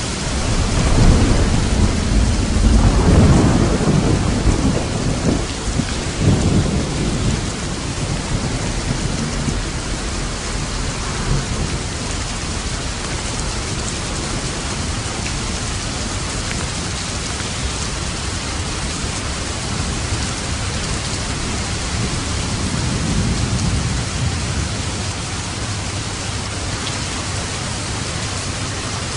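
Steady heavy rain drumming on a roof, with a long rolling rumble of thunder in the first several seconds that swells twice and fades, and a fainter rumble a little past the middle.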